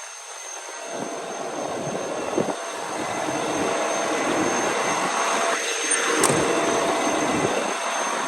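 Kenworth W900 concrete mixer truck running, its Cummins diesel engine and turning drum making a steady mechanical rumble that grows louder over the first few seconds and then holds.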